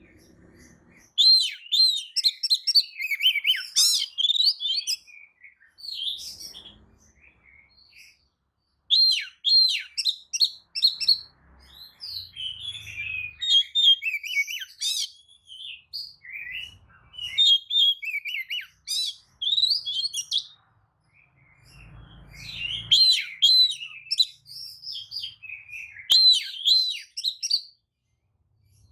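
Oriental magpie-robin singing: fast, varied whistles and chirps in phrases a few seconds long with short pauses between them. It is a lure song, played to provoke other magpie-robins into answering.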